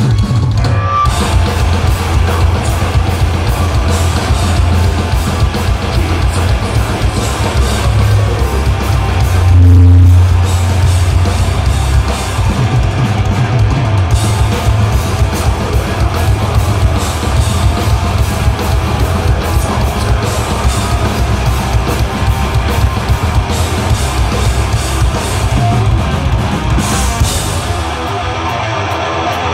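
Live sludge metal band playing: distorted electric guitars, bass and a pounding drum kit. The sound thins out in the last couple of seconds, leaving mostly guitar.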